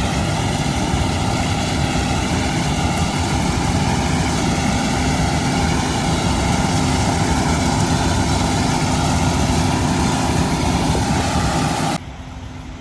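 Quadcopter drone propellers humming steadily at close range, several tones wavering slightly in pitch as the motors adjust; the sound drops away sharply near the end.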